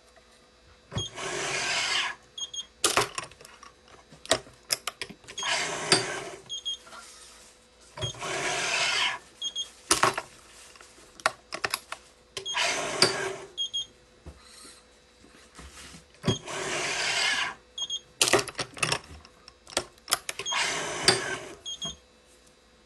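Yonex ES5 Pro stringing machine tensioning the main strings of a badminton racket: a noisy pull of about a second, repeated roughly every four seconds, six in all. Sharp clicks come between the pulls.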